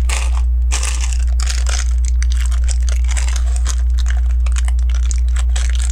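Loose plastic LEGO bricks being sifted through by hand while searching for a piece: irregular clicking, rattling and rustling over a steady low hum.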